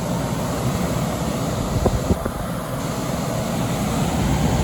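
Late-1980s Emerson Quiet Kool 10,000 BTU window air conditioner running, its fan pushing a strong stream of cold air as a steady rushing noise. A few faint clicks come about two seconds in.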